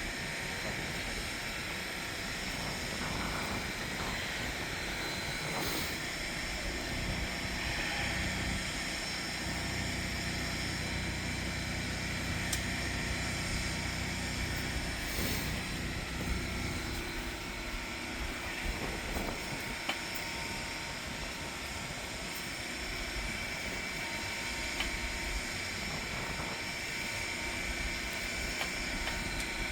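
High-pressure sewer jetter running with a steady drone, working to re-jet a clogged sewer line. The low end is fuller for the first half and eases off a little later on.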